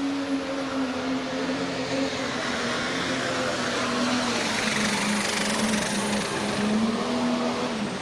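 Pro stock pulling tractor's turbocharged diesel engine running hard at full throttle during a pull, its steady note wavering under load, then falling near the end as the engine throttles back.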